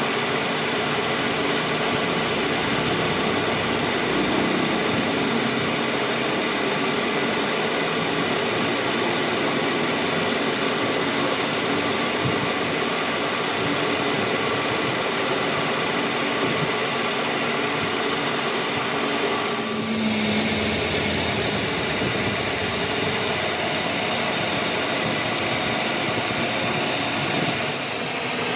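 A workshop machine tool, most likely the metal lathe used on the hub, running steadily with a constant motor hum and whir. Its sound changes briefly about two-thirds of the way through.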